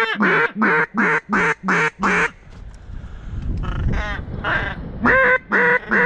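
Mallard duck call blown in quick runs of loud hen quacks, about three a second, each note dropping in pitch. A run of about seven quacks is followed by a pause with a low rumble, and then the calling starts again near the end. The calling is aimed at ducks circling the decoys.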